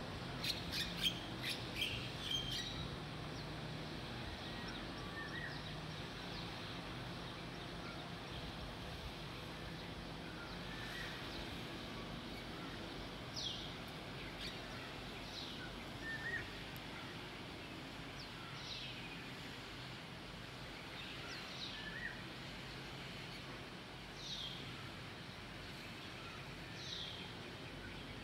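Birds calling over a steady low outdoor background. A flurry of chirps comes in the first couple of seconds, then from about halfway through a short, high, falling note repeats every two to three seconds.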